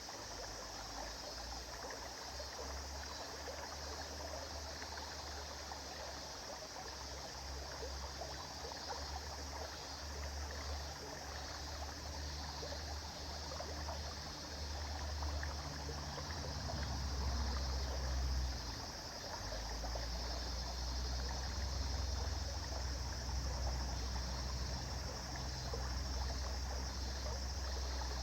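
River water flowing and trickling steadily, with a low rumble underneath that swells and fades, loudest a little past halfway through.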